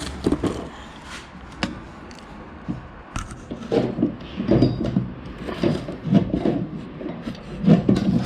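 Hand grease gun being pumped into a grease nipple on a skid-steer attachment pin: sharp clicks and knocks, then a run of low strokes about once a second.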